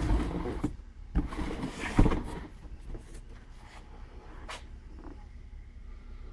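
A cardboard box and its contents being handled: thumps and rustling scrapes for the first two seconds, with the loudest thump about two seconds in, then a few lighter knocks.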